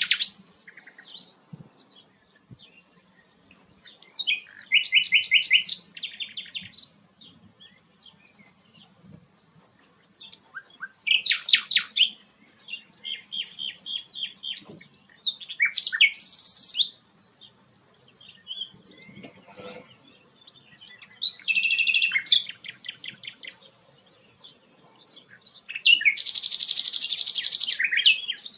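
A sikatan londo flycatcher singing: loud phrases of rapidly repeated high notes, about every four to five seconds, with softer twittering between them.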